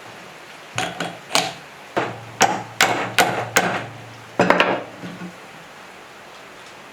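Hammer strikes: about ten blows in an uneven rhythm over some four seconds, each ringing briefly, then they stop.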